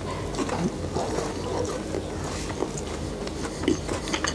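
A person chewing a mouthful of stuffed chocolate bar with soft brownie and melted marshmallow inside, close to the mic: scattered small wet mouth clicks and smacks.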